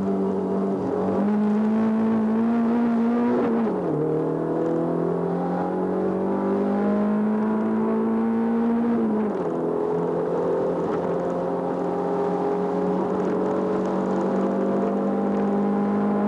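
Racing car engine heard from inside the cabin, pulling under load with its revs climbing slowly. The pitch drops sharply twice, about four and nine seconds in, as it shifts up a gear, then holds fairly steady.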